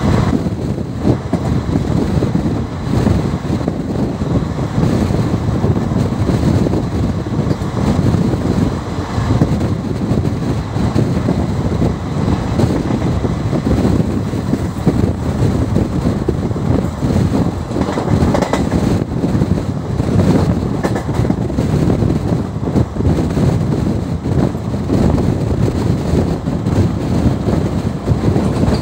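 Passenger train running along the track, heard from aboard: a steady low rumble with wheels clattering over the rails.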